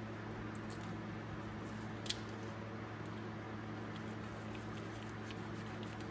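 Small metal clicks of ratchet parts being handled during greasing and reassembly, one sharper click about two seconds in, over a steady low background hum.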